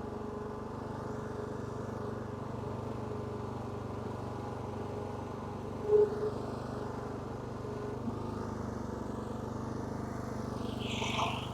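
Lawn mower engine running steadily, with one brief loud clunk about six seconds in and a short higher-pitched sound near the end.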